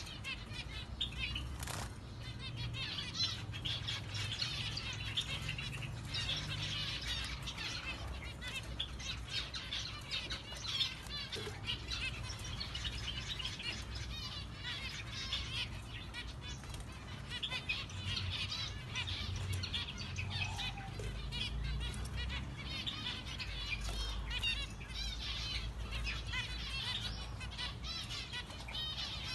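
Several zebra finches chirping, many short calls overlapping without pause, over a low background rumble.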